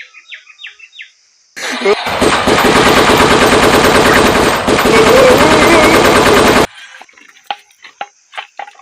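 A machine-gun sound effect: one loud, continuous burst of rapid automatic fire lasting about five seconds, starting a moment after a few short chirps and cutting off suddenly.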